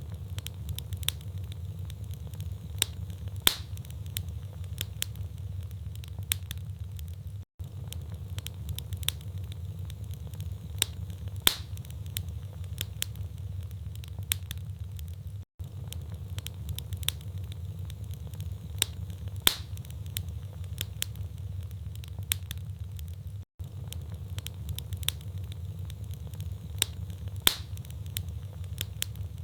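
Wood fire in a fireplace crackling: irregular sharp pops and snaps over a steady low rumble. The same pattern of pops repeats every eight seconds, each time after a brief dropout, as a short recording looped.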